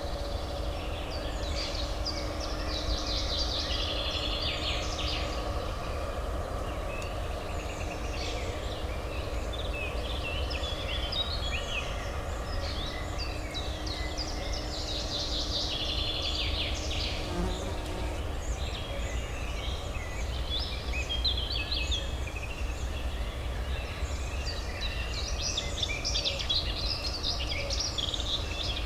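Many small songbirds chirping and singing at once, thickest in a few bursts, over a steady low urban hum.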